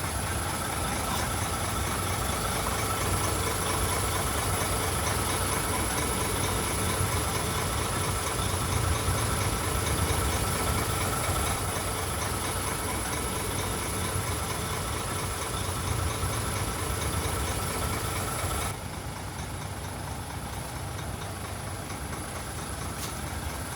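Heavy diesel engine of earthmoving machinery running steadily at low revs, with a thin steady high whine over the rumble. About three quarters of the way through, the sound abruptly drops in level and the whine stops.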